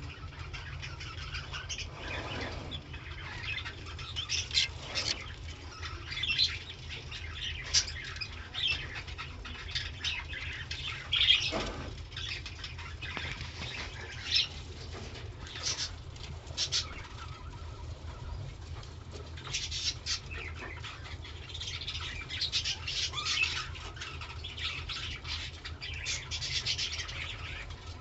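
Budgerigars chirping and chattering in a stream of short, high squeaks and warbles, busiest near the end, over a steady low hum.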